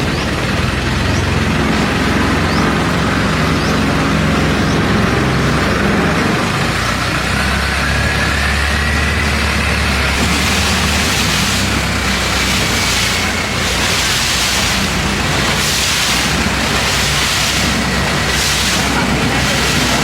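Long-tail boat engine running steadily, its pitch rising partway through as it speeds up. About halfway in, a rushing of water and wind joins it and swells roughly once a second.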